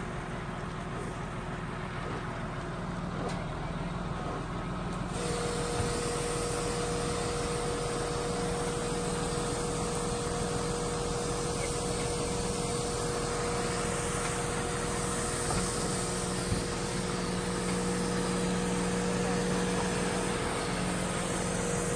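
A heavy vehicle's engine running steadily. A steady higher tone and more hiss join about five seconds in, as if the engine comes under load.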